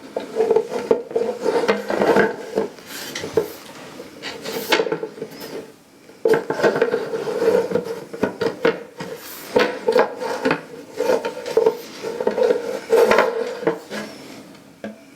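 Telescope parts being handled and fitted together: repeated clicks, knocks and scraping of metal and plastic, in two busy spells with a quieter stretch about five seconds in.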